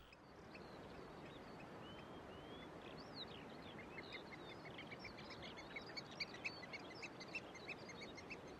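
Small birds chirping and whistling over a steady background hiss: a few short whistled slurs in the first seconds, then from about four seconds quick chirps repeating about three times a second.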